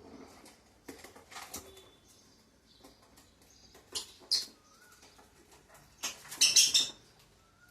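Pet lovebirds: short, sharp high-pitched calls about four seconds in, and a louder, harsh burst lasting nearly a second about six seconds in, with light scratching and rustling in between.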